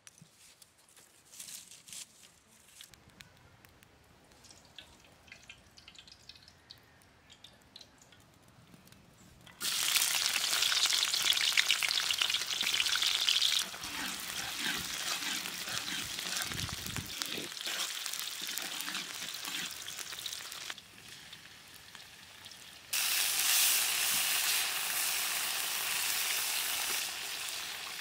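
Sliced onions frying in hot oil in a metal karahi: a loud sizzle comes in suddenly about a third of the way in, then eases to a steadier frying hiss while a metal spatula stirs. The sizzle drops briefly and flares up loud again about five seconds before the end.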